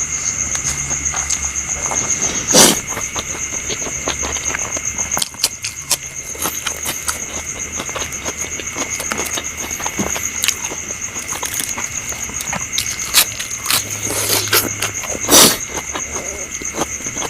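A person eating close to the microphone: chewing and mouth clicks, with two louder crunches or knocks, one near the start and one near the end. A steady, high-pitched chirring runs underneath.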